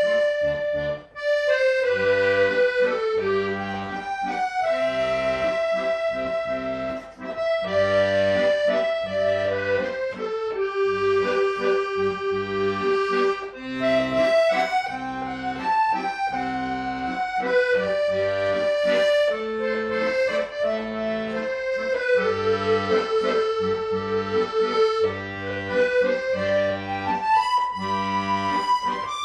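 Accordion playing a melody of held notes in G over an evenly pulsing bass-and-chord accompaniment.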